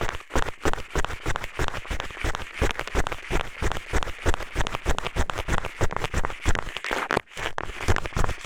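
Eyeglasses used as an ear pick, scraping and rubbing in a binaural microphone's ear: a dense, unbroken run of quick scratchy strokes, several a second.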